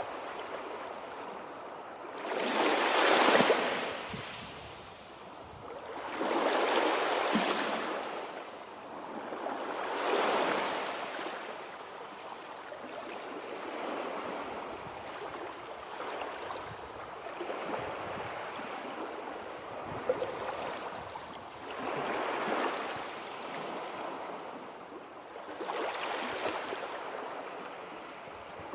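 Sea surf: waves breaking and washing in one after another, the rush swelling and fading every three to four seconds, the strongest wave about three seconds in.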